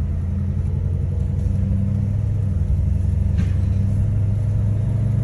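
2007 Ford Crown Victoria's 4.6-litre V8 running steadily, heard from inside the car, with a temporary clamp on its rusted-through exhaust joint. The engine hum is even, with no rattle.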